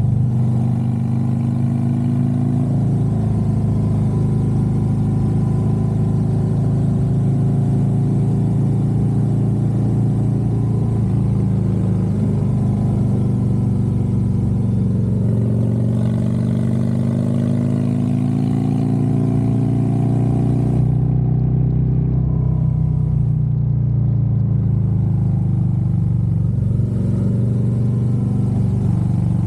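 Harley-Davidson Road Glide's V-twin engine running under way, rising in pitch as it pulls through the gears, notably in the middle of the stretch. About two-thirds through the high hiss drops away abruptly while the engine note carries on.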